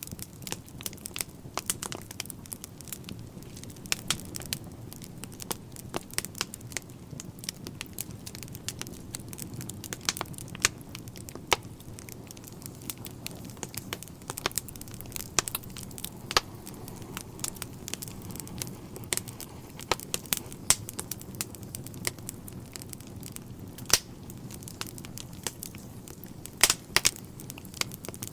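Wood fire burning in a fireplace, with frequent irregular sharp crackles and pops over a steady low hiss of the flames.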